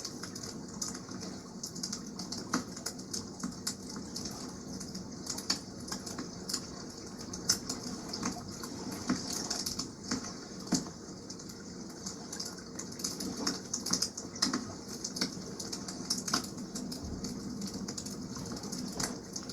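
Wood campfire crackling, with irregular sharp pops and snaps, over a steady wash of water.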